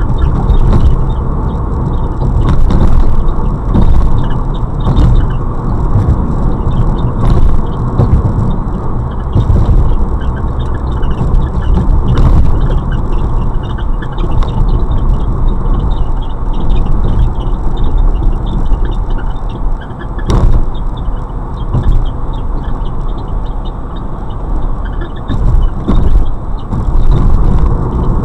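Fiat Bravo driving, with steady road and tyre rumble and a recurring short squeak from the car. The squeak comes while coasting or cruising at any speed, in gear or out and with the clutch in or out, and stops under acceleration.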